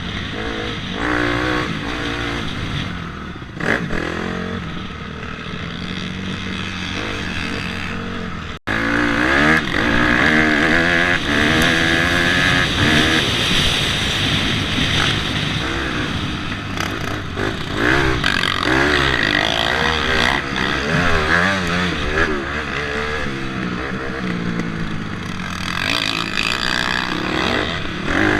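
Dirt bike engine being ridden on a motocross track, its revs rising and falling again and again through throttle changes and gear shifts. There is an abrupt cut about a third of the way in, after which the engine is louder.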